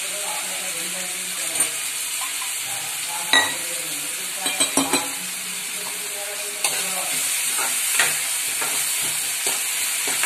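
Chopped onions and ginger-garlic paste sizzling in hot oil and butter in an aluminium kadhai, stirred with a spoon. A few sharp metal knocks sound against the pan about three and five seconds in. The sizzle grows louder about two-thirds of the way through, as the stirring picks up.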